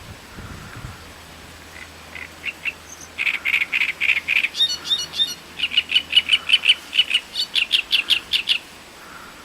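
Great reed warbler singing one song phrase: a quick run of repeated notes that starts softly about two seconds in and soon grows loud, with a short higher, squeakier passage in the middle. It stops about a second before the end.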